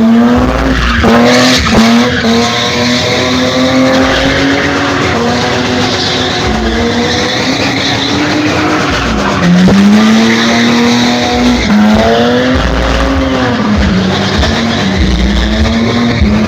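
Drift car's engine held at high revs, dropping briefly and climbing back several times, over continuous tyre skidding and squeal as it drifts.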